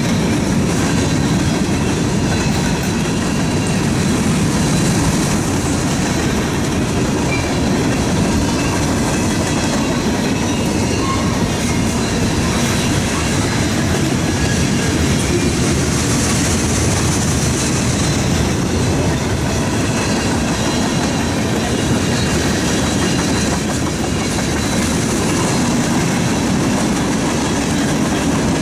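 Train cars rolling steadily past on the rails at close range, a continuous loud rumble and clatter of steel wheels on track.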